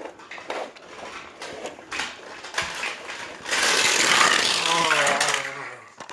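Small clicks and knocks of die-cast toy race cars being handled. About three and a half seconds in comes a loud, rough engine-like noise lasting about two seconds, its pitch falling at the end, like a child's vroom for a race car being pushed along.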